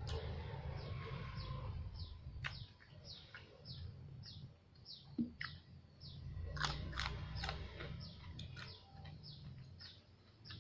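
Chewing and crunching of food close to the microphone, with sharp crunchy clicks about two-thirds of the way through. Behind it a bird chirps over and over, a short falling chirp about twice a second.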